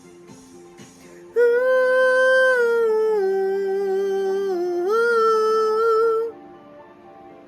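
Pop song outro: soft keyboard notes, then about a second and a half in a female voice holds one long wordless note for about five seconds, stepping down in pitch twice and back up, before it cuts off and the soft keyboard returns.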